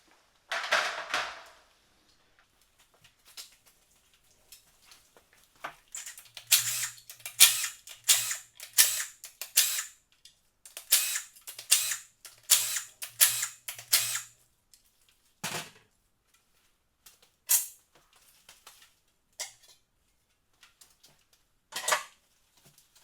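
Sharp metallic clicks and clanks of tools and engine parts being handled during an engine teardown, including two runs of rapid clicking over a low motor hum from a power tool working fasteners loose.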